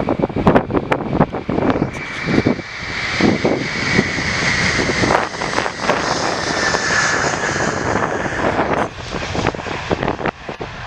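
Airbus A330-300 airliner taking off, its twin jet engines running at full thrust with a steady rush and a high whine that slowly falls in pitch.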